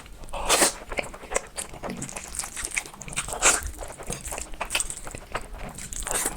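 A person eating black noodles close to the microphone: wet chewing and lip smacks with many sharp mouth clicks.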